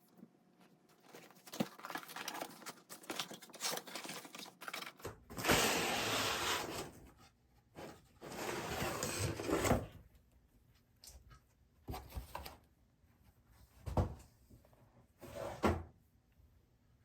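Packaging being handled in a small room: scattered clicks and knocks, with two longer stretches of loud rustling about five and eight seconds in, then a few more knocks.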